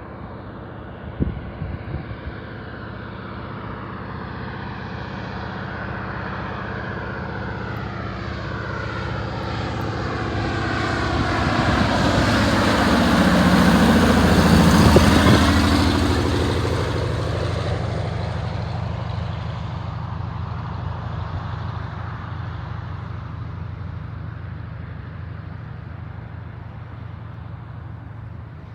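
Propeller-driven floatplane passing close by: its engine and propeller grow steadily louder to a peak about halfway through, then fade away, the pitch dropping as it goes past.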